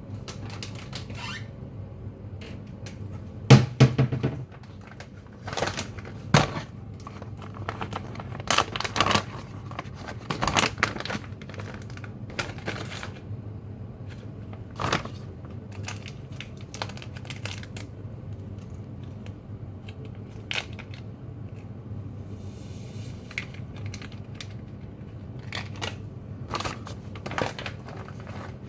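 Irregular knocks, clicks and rustling, as of objects being handled, over a steady low hum. The loudest knock comes about three and a half seconds in, with a cluster of clicks between about five and eleven seconds.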